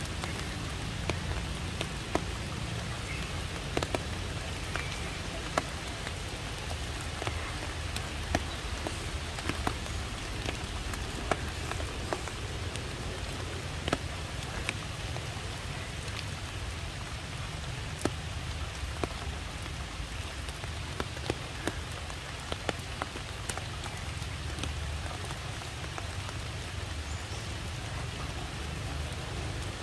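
Water drops pattering after rain, with scattered sharper drips about once a second over a steady low rumble.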